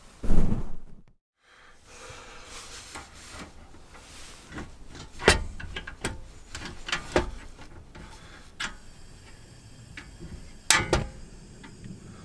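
A few sharp knocks and rustles over a low steady hiss, the loudest about five, seven and eleven seconds in.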